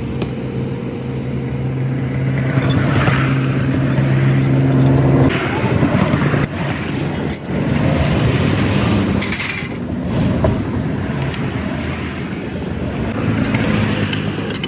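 A motor vehicle engine running with a steady hum that changes about five seconds in, mixed with road traffic noise and a few clicks and knocks.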